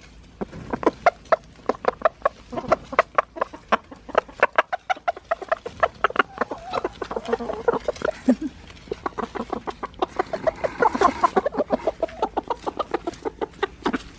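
Chickens clucking: a rapid run of short clucks, several a second.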